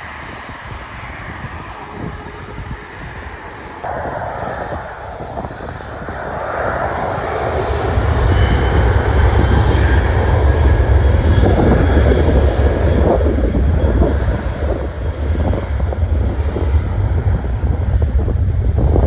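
Airliner engines growing steadily louder as the aircraft passes close, then a loud, heavy low rumble from about eight seconds in.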